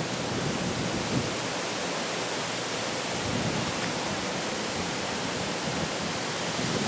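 Steady rushing of a river in flood after a hurricane.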